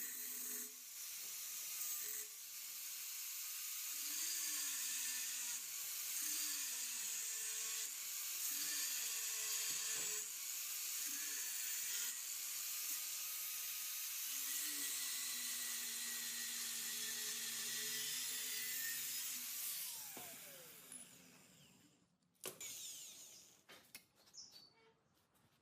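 A power tool running with a steady high hiss and a wavering hum that dips and rises, winding down about twenty seconds in, followed by a few short knocks.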